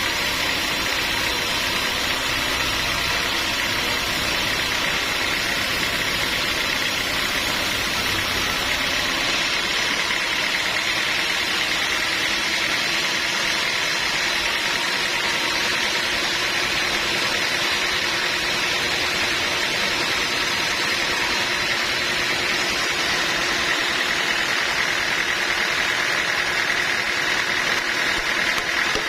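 Sawmill machinery running steadily with a constant mechanical hum and whine. About a third of the way in the deep rumble drops away, leaving the higher whine.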